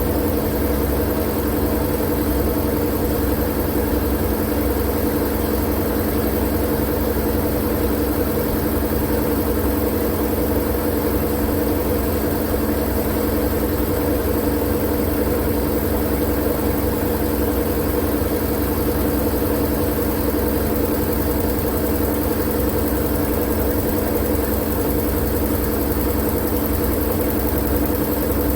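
Continuous steady machine drone: a low rumble with a few steady humming tones over a layer of hiss, not changing at all, played as sleep noise.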